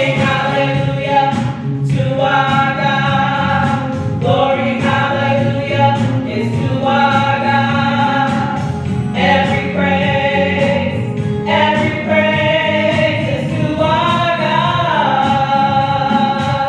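Gospel choir singing with accompaniment, in sustained phrases of about two seconds each.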